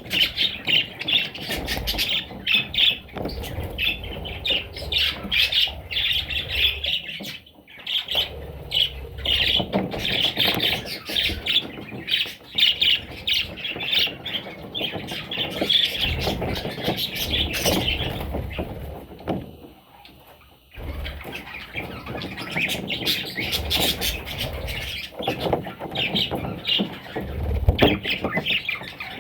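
Budgerigar chicks squawking and chirping in rapid, dense streams, with two brief lulls, one around seven seconds in and a longer one around twenty seconds in.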